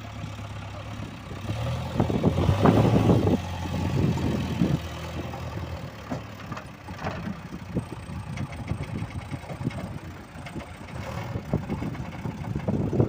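A motor vehicle engine running, with a steady low hum for the first few seconds and then uneven rumbling and short knocks.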